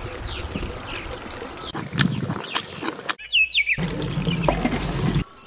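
Close-up chewing of octopus with crunchy houttuynia root, with a few sharp crunches about two to three seconds in. A brief high bird chirp follows just after the cut, a little past three seconds.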